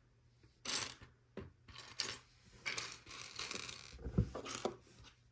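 Small plastic LEGO pieces clicking and clattering as they are handled and sorted, a quick irregular run of light rattles and taps.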